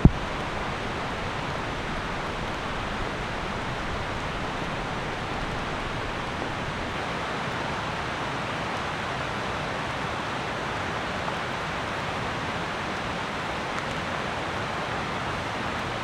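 Steady rain falling, an even hiss throughout, with one sharp knock right at the start.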